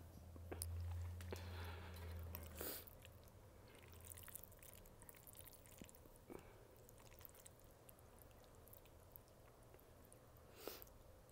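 Faint, close-miked chewing of soft pasta, with a low hum through the first couple of seconds. Then come a few light clicks as chopsticks work through the pasta on a plate, the sharpest near the end.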